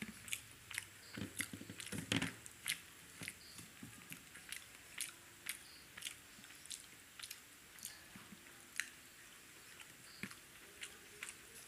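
Close-miked eating sounds: a man chewing a mouthful of potato-stuffed paratha and curry, with soft wet mouth clicks and smacks a few times a second, busiest about one to two seconds in.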